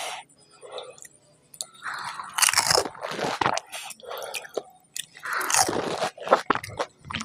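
Close-up crunching and chewing of crisp panipuri (golgappa) shells, in two spells of loud crunching with quieter chewing between.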